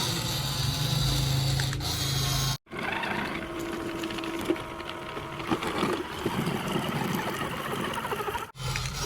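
Small electric motor and plastic gearbox of a toy RC vehicle whirring, with clicks and rattles, broken by two abrupt cuts.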